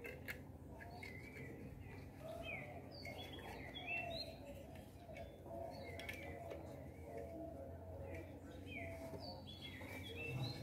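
Wild birds chirping and calling repeatedly: short, high chirps and quick whistled glides, with lower short notes beneath. A few faint clicks come from hands working wire on a small wooden frame.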